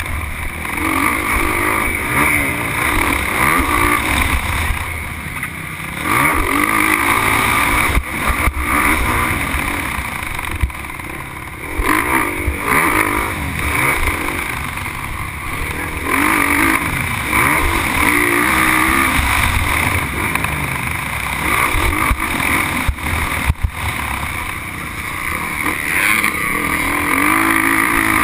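Motocross bike engine heard up close from on board, revving up and easing off again and again as the rider accelerates out of turns and backs off, with a few sharp knocks along the way.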